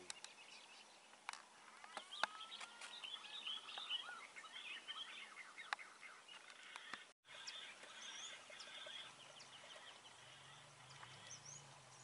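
Faint calls of wild birds: many short chirps and whistled notes, with a few high rising whistles in the second half. A few sharp clicks come through in the first half, and the sound drops out briefly at a cut about seven seconds in.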